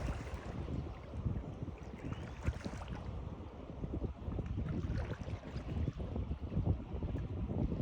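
Water lapping and splashing irregularly, with a steady low rumble underneath.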